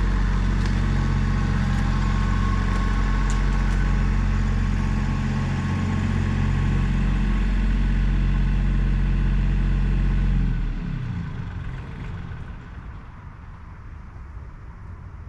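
A large engine idling steadily, then shut off about ten seconds in, its pitch sinking as it winds down.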